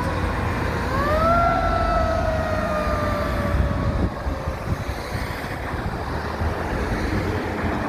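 Siren on a 1996 KME fire engine winding down in pitch, then quickly winding up again about a second in and slowly coasting down until it fades about halfway through. Under it the truck's engine and road noise rumble steadily.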